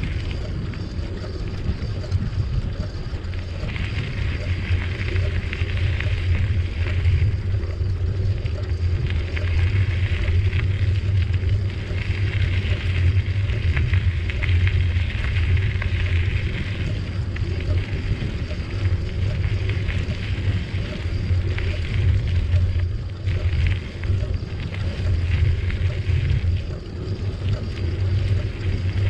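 Wind rumbling over the microphone, with tyre and trail noise from a bicycle being ridden, steady throughout. A higher hissing sound swells and fades several times.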